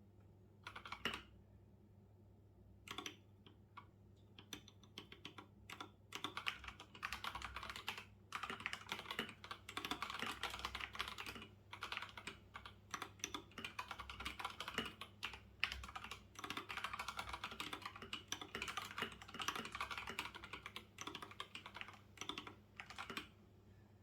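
Typing on a computer keyboard: a few single keystrokes at first, then fast runs of key clicks with short pauses between bursts, stopping about a second before the end.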